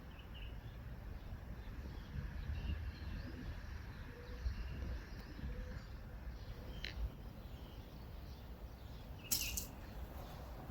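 Faint, scattered bird chirps over a steady low rumble, with one brief, louder high-pitched sound about nine seconds in.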